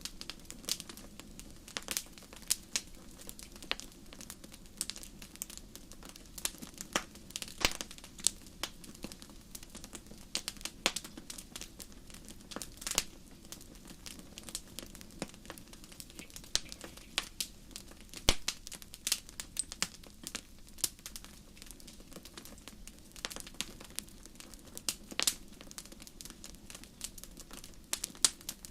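Wood campfire crackling: irregular sharp pops and snaps, several a second, over a low steady hiss of burning.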